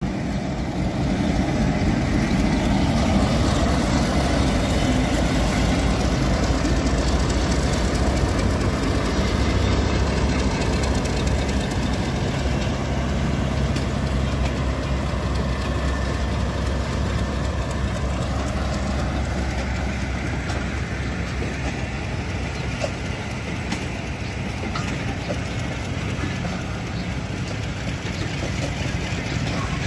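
Diesel locomotive engine running with a low, steady drone as a passenger train pulls away, the drone fading about two-thirds of the way through. The coaches roll past on the rails, leaving a rushing rail noise with a few light clicks near the end.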